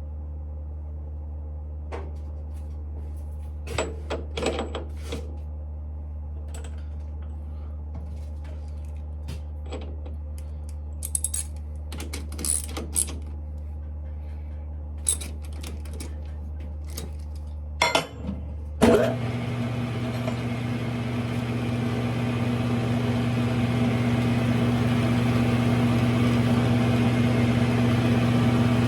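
Scattered metallic clicks and clinks of brass parts and tools being handled over a steady low hum; about nineteen seconds in, the Smithy lathe's motor starts and runs steadily, growing a little louder.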